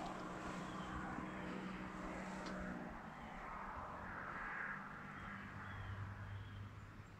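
Quiet woodland ambience: faint short bird calls repeating over a low, steady hum.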